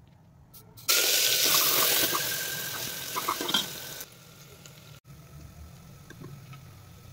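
Chopped onion and tomato hitting hot oil in an aluminium pressure cooker: a sudden loud sizzle with crackles about a second in, fading over about three seconds. Then a faint, steady low sizzle with light ticks as the mixture fries.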